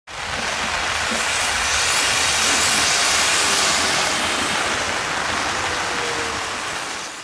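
Steady rain falling on a wet city street, with the low rumble of passing traffic underneath. It starts abruptly and fades out near the end.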